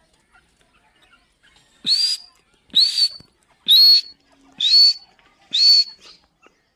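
Grey francolin (teetar) calling: five shrill, whistled notes about a second apart, each rising quickly and then holding a high pitch.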